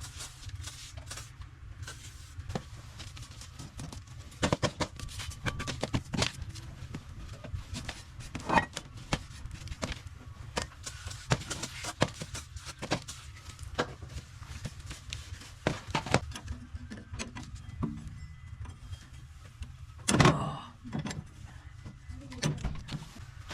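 Irregular clicks, knocks and scrapes of hand tools and metal parts as the lower section of a gas boiler is worked on and cleaned, over a steady low hum. A louder clatter comes near the end.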